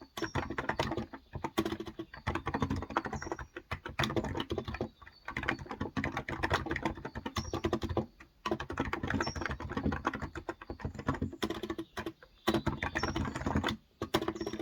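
Continuous fast typing on a Cox Endeavour tenkeyless keyboard with 35 g electrostatic capacitive switches, a dense patter of key strokes broken by a few brief pauses.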